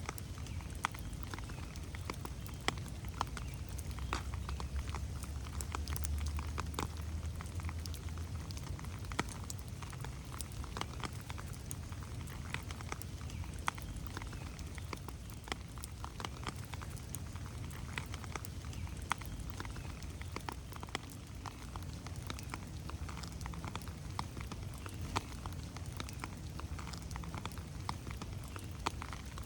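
Steady rain falling on forest plants and a gravel trail: a dense patter of individual drops over a low rumble that swells about four to eight seconds in.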